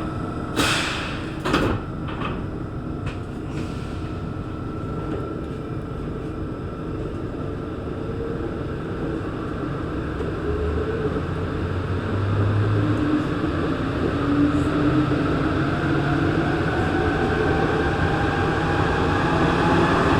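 Santiago Metro NS-16 train: the sliding doors bang shut twice about a second in. The train then pulls away, its traction motors whining and rising steadily in pitch as it gathers speed over the rumble of the wheels.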